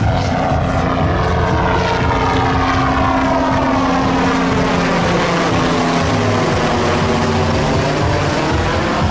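Propeller aircraft flying past, its engine running with a steady drone. The drone drops slightly in pitch about five seconds in as it passes.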